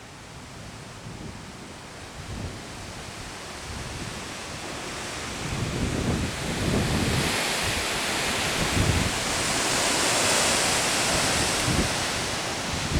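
Strong storm wind rushing and buffeting the microphone, growing steadily louder, with a rising high hiss in the second half.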